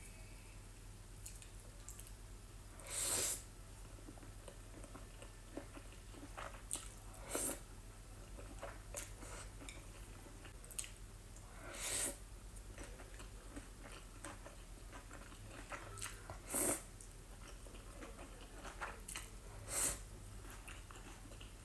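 Close-miked eating: a person chewing and biting into jajangmyeon noodles with octopus, with small wet clicks and a short, louder noisy mouth sound every four to five seconds.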